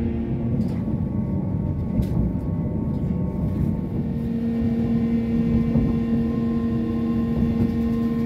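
Running noise heard from inside a moving passenger train: a steady low rumble under a constant electric motor hum, with a few faint clicks.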